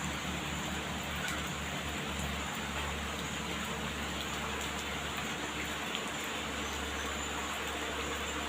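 Steady heavy rain falling, with scattered drop ticks and a low, steady rumble underneath.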